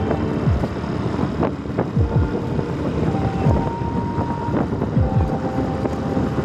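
Outdoor vehicle noise with wind on the microphone: a steady rumble broken by many short low swooshes.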